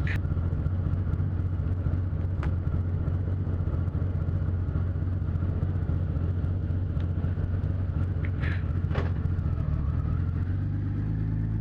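Motorcycle engine idling steadily, then rising in pitch as it accelerates near the end.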